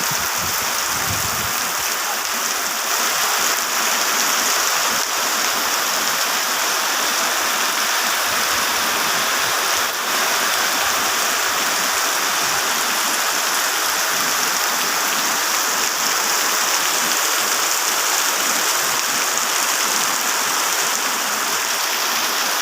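Heavy rain pouring down in a steady, loud hiss, with a rush of running water.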